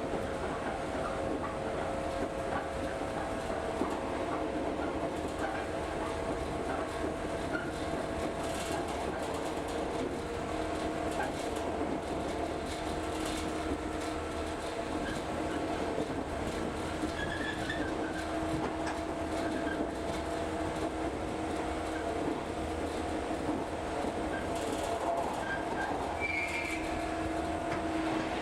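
Local train running, heard from inside the carriage: an even rumble of wheels on the rails with a few steady tones. A few short, faint high squeaks come near the end.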